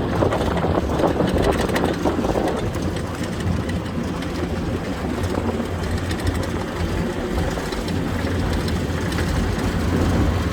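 Diamond T half-track's engine running with a steady low rumble as the vehicle drives along, with extra rattling noise in the first couple of seconds and the rumble growing a little louder near the end.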